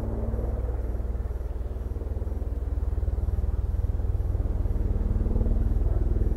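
NH90 helicopter's rotors beating in a rapid, even low pulse over a steady hum, growing gradually louder.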